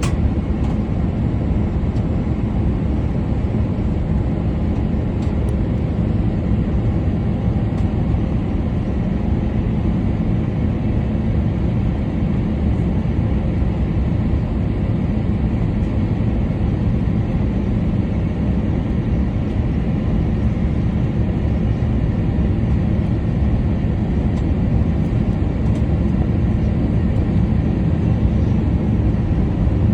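Airbus A350-900 airliner with Rolls-Royce Trent XWB engines during its landing: a steady low rumble of engines and rushing air, unbroken and even throughout.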